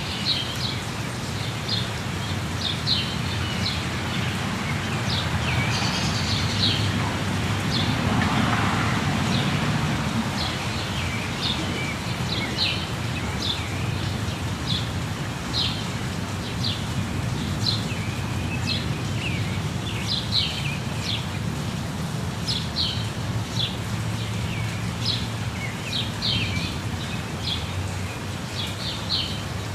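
Steady rushing of a jungle waterfall, with many birds chirping over it in short, quick, high calls repeated throughout.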